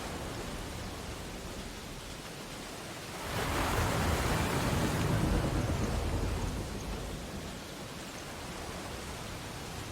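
Ocean surf on a beach: a steady wash of water, with one wave swelling and breaking about three seconds in and washing out again by about seven seconds.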